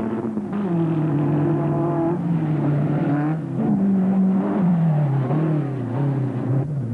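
Off-road race vehicle's engine under load, its pitch falling and rising repeatedly as the driver backs off and gets back on the throttle.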